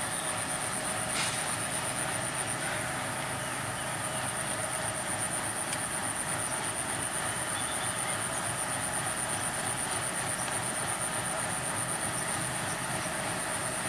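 WDM-3A diesel-electric locomotive running steadily with its train, an even engine drone without clear breaks or knocks. A steady, pulsing high whine sounds above it.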